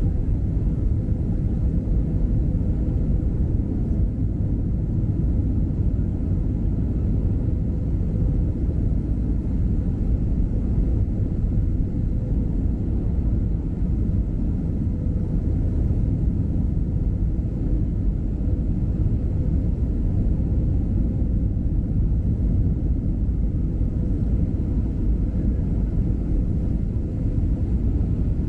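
Steady low rumble of a Southwest Boeing 737 airliner heard inside the passenger cabin: engine and airflow noise, with a faint steady hum running through it.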